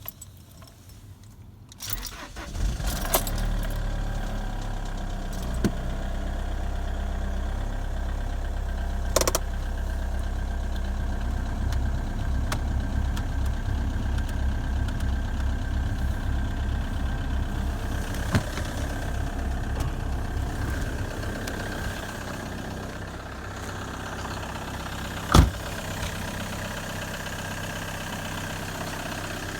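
Opel Astra G 2.0 DTI four-cylinder turbodiesel starting from cold: it catches about two seconds in and settles into a steady idle, easing slightly later on. A few sharp clicks sound over it, the loudest near the end.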